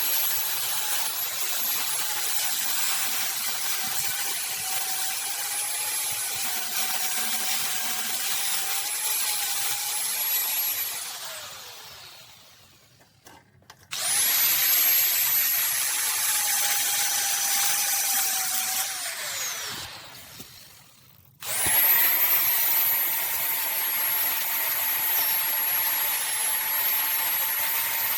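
A high-speed electric power tool running with a steady high whine over a grinding, cutting noise. It is switched off twice, its pitch falling as it winds down, and started up again each time.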